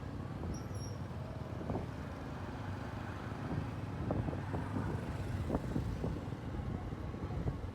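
Motorcycle engine running on the move, a steady low rumble mixed with road noise, with scattered short knocks from about two seconds in.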